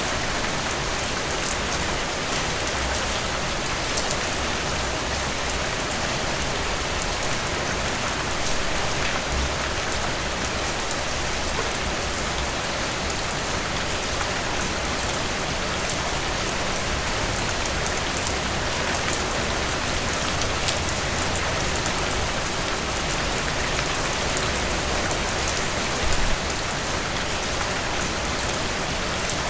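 Steady rainfall, with drops pattering on surfaces over an even hiss and a brief low thump about 26 seconds in.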